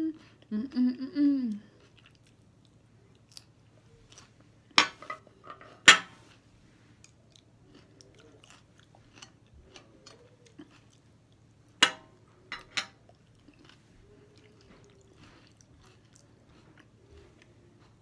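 Close-up chewing and eating sounds, opening with a brief hummed "mmm". A few sharp clacks of chopsticks, fork and plates are heard, two about five to six seconds in and three about twelve seconds in.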